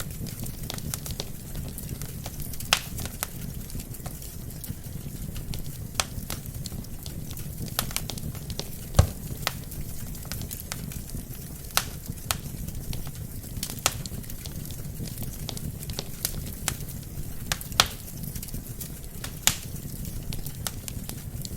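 Wood fire burning in a fireplace: a steady low rumble of flames with irregular sharp pops and crackles from the logs, the loudest pop about nine seconds in.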